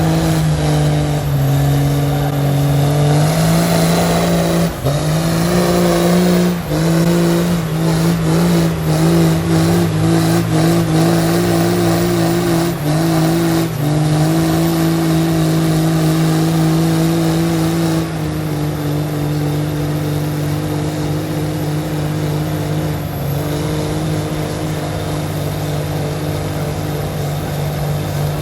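Big lifted trucks' engines held at high revs under load, as in a truck tug or pull. The note wavers and drops out briefly a few times, then settles to a slightly lower, steadier drone for the second half.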